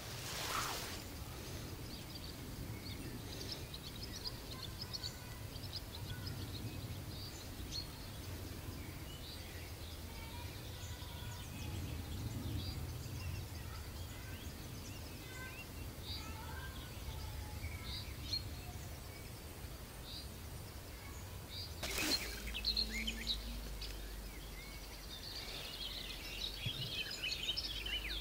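Birds chirping and singing over a low, steady rumble, with two sharp knocks, one near the start and one about twenty-two seconds in.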